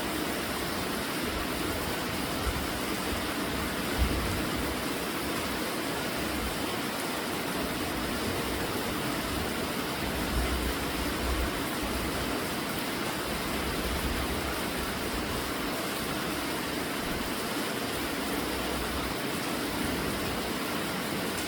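Steady rainfall, an even hiss of rain without a break, with a few brief low thumps, the sharpest about four seconds in and a short cluster near the middle.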